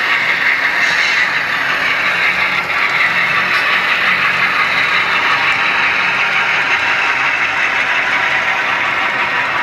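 HO scale model train running on the layout: a steady mechanical running noise with a light rattle.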